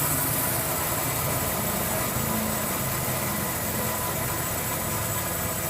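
Grob 4V-24 24-inch vertical band saw running with its variable-speed drive being turned down in the high gear range: a steady machine hum with a high hiss, easing slightly in level.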